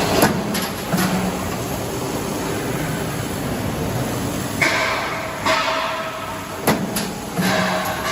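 Sheet-metal production line for fire damper frames running: a steady machine hum with sharp metallic knocks, a few near the start and two close together near the end, and two spells of hiss in the second half.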